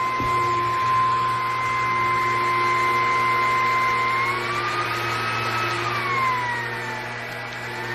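Bissell PowerClean upright vacuum's 200 W motor running with a steady whine over a low hum. About four seconds in the whine rises in pitch, then dips below its usual pitch before settling back near the end, as the load on the motor changes.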